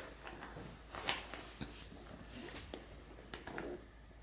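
Faint rustling and a few light ticks from a child handling the shoelace on a fabric quiet book.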